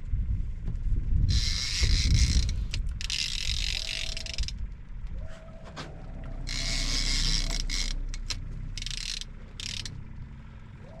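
Big-game fishing reel ratcheting in several bursts of a second or two as line is worked against a hooked bull shark, over a steady low rumble.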